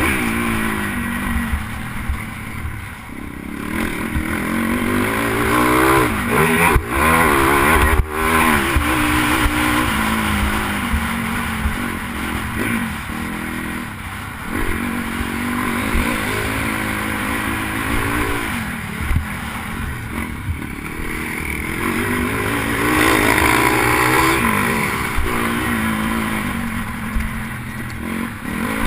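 Pit bike's single-cylinder engine revving hard and falling off again and again under racing throttle, with a few sharp breaks in the engine note about seven to eight seconds in. Wind rushes over the helmet-mounted microphone.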